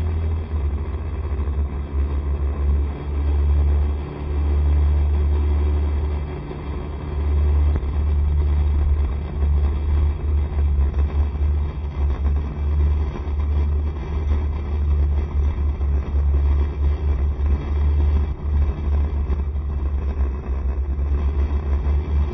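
Ride on a Honda SCR110 scooter: its engine and road noise run steadily under a heavy low rumble that keeps coming and going, wind buffeting the microphone.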